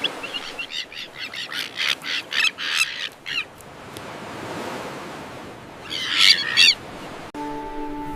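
Common terns calling: a quick run of harsh, high calls over the first few seconds, then a louder cluster of calls about six seconds in, over a steady hiss. Music comes in near the end.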